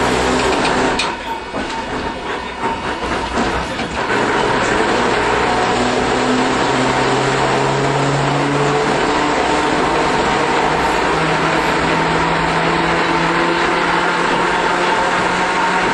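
Iyo Railway Matsuyama streetcar running, heard from inside the car: steady rumble of wheels on rail and motor hum. For a few seconds near the start it goes quieter, with a run of clicks, then comes back to full level. The motor hum steps up and climbs in pitch in the second half as the tram picks up speed.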